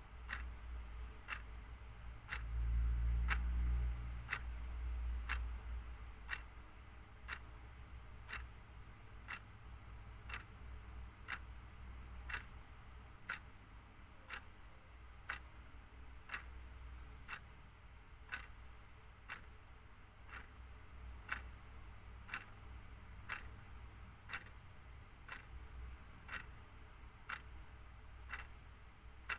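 Clock ticking steadily, about once a second. A low rumble swells up about two seconds in and fades over the next couple of seconds.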